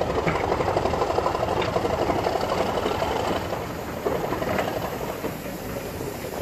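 Heritage passenger train pulling slowly out of a station, its coaches rolling past close by with a steady rapid mechanical chatter that eases slightly in the second half.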